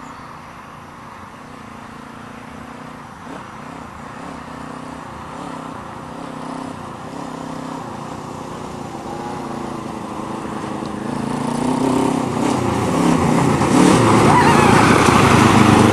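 Motorcycle-engined go-kart running, its engine note rising and falling with the throttle while it comes closer and grows steadily louder.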